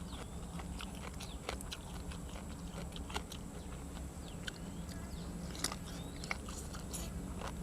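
A person chewing and biting grilled cuttlefish and fresh vegetables close to the microphone, with irregular wet clicks and crunches, over a steady low hum.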